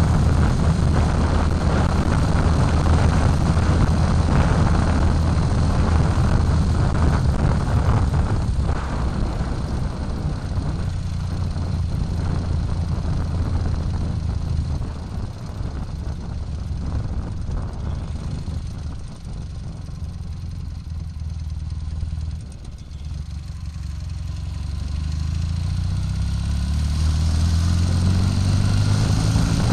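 Ural 650 motorcycle's air-cooled flat-twin engine running while the bike rides along, with wind and road noise. The engine goes quieter from about halfway through, dips sharply, then rises steadily in pitch near the end as the bike speeds up again.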